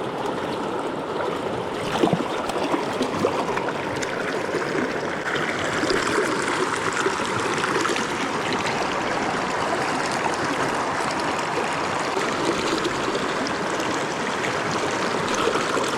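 Mountain river water rushing steadily over rocks, with a short knock about two seconds in.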